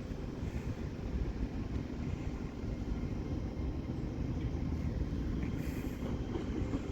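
Great Western Railway Class 800 IET train pulling into the station: a steady low rumble that builds slightly.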